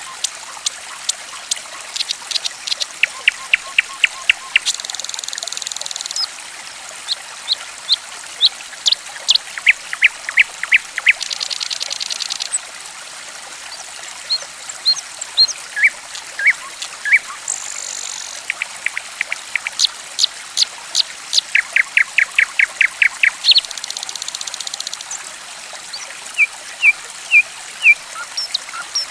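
Gently trickling water under songbird calls: runs of short, sharp chirps repeated several times a second, broken by a few buzzy trills lasting about a second each. It is a bird-lure track meant to prompt a silent caged bird to start singing.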